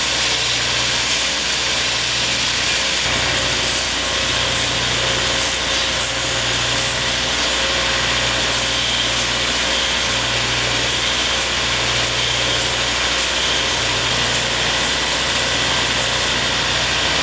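A 2x72 belt grinder running steadily as a knife handle is ground to shape against the belt. A low hum in it comes and goes about every second and a half.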